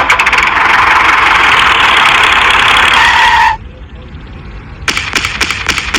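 Small motor of a mini tractor running with a steady, fast buzz for about three and a half seconds, then cutting off suddenly; a quick run of clicks follows near the end.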